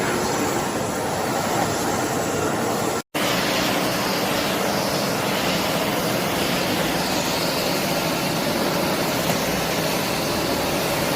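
Philips FC9350 bagless cyclonic vacuum cleaner running, a loud steady rushing noise of motor and airflow, cut off for an instant about three seconds in.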